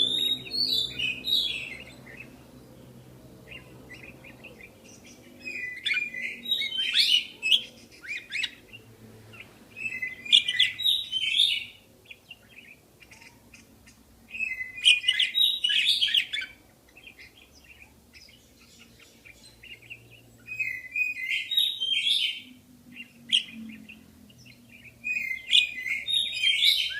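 Budgerigars chattering and warbling in quick high chirps. The chirps come in bouts of a second or two, about six of them, with short quieter pauses between.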